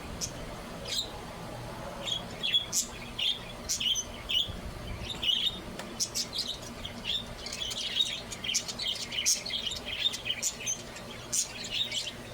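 Budgerigars chirping and chattering: many short, quick, high chirps, coming thicker in the second half.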